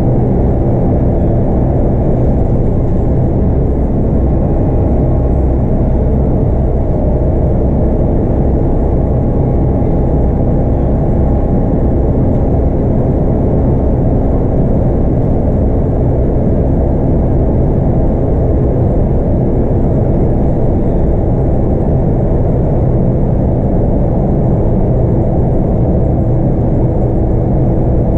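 Inside a Scania K230UB bus under way: the 8.9-litre five-cylinder Scania DC9 diesel runs steadily, mixed with road and tyre noise. The sound is a loud, even rumble with no gear changes or pauses.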